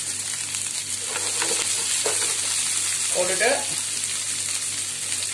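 Shredded cabbage frying in hot oil in a pan with onions and green chillies, giving a steady sizzling hiss, while a slotted metal spatula spreads it.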